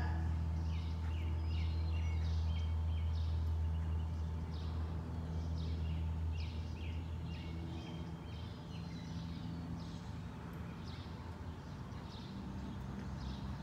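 Small birds chirping in quick repeated notes, about two a second, over a steady low hum of background noise.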